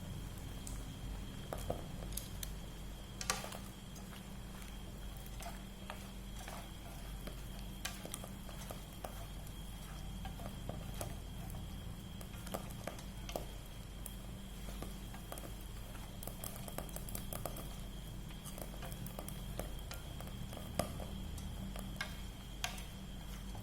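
Food frying in oil in a pan, with scattered pops and crackles and now and then a utensil clicking against the pan, over a steady low hum.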